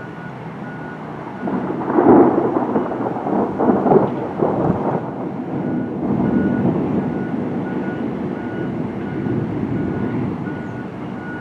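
Thunder rumbling: it swells about a second and a half in, with loud peaks near two and four seconds, then rolls on and slowly fades. Behind it, a steady series of short, evenly spaced high beeps.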